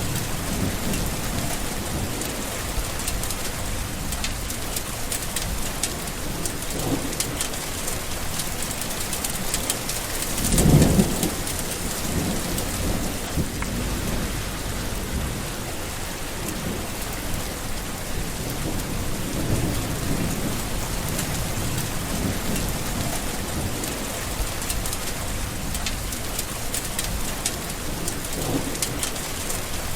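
Steady heavy rain falling on a surface, with rolling thunder; the loudest clap rumbles about eleven seconds in, and fainter rumbles swell and fade several times.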